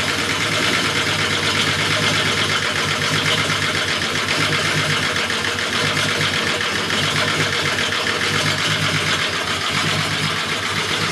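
VW VR engine, swapped into a Mk2, idling steadily with a slightly uneven pulse in its low note, which the owner suspects is a misfire.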